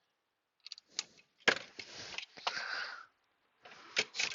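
Several sharp clicks and short stretches of rustling: hand tools and small parts being handled.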